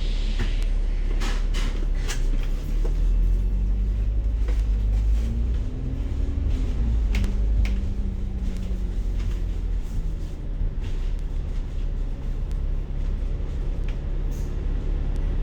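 Bus engine heard from inside the cabin: a deep steady rumble, with the engine note rising for a few seconds and then falling, and scattered clicks and rattles from the bodywork.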